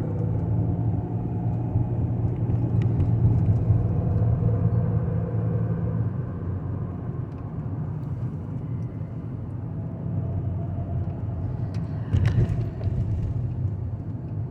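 Van driving, heard from inside the cab: a steady engine and road rumble that is louder for the first six seconds or so and then drops lower. A brief louder noise comes about twelve seconds in.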